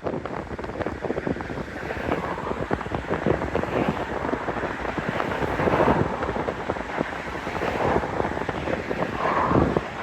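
Wind buffeting the microphone in irregular gusts, over the noise of traffic passing on a busy main road, swelling a couple of times as vehicles go by.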